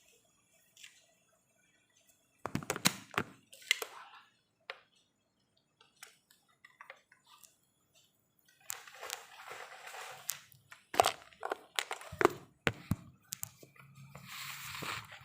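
Irregular clicks, knocks and scraping from hands and tools working on a CRT television's circuit board. There are a few clusters of sharp knocks and rustling, with a short hissing scrape near the end.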